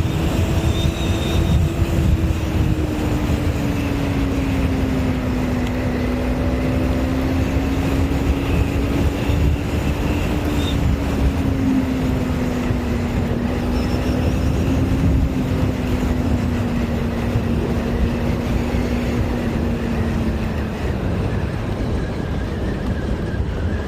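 Motorcycle engine running at a steady cruise, heard from the rider's head with a heavy low wind rumble on the microphone. The engine note sinks slowly and drops away near the end.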